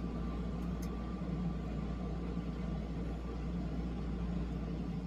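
Steady low hum and hiss of background noise, with one faint click about a second in.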